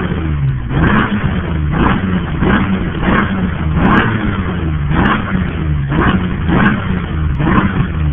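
Nissan VQ30DE 3.0-litre V6, swapped into a first-generation Altima, being revved in quick repeated throttle blips, about one a second, each rising and dropping back toward idle.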